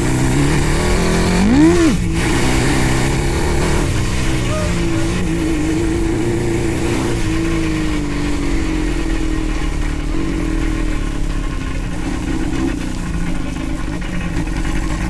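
A go-kart's 600cc engine running under way. About two seconds in it revs sharply up and straight back down, then holds a fairly steady pitch for the rest of the time.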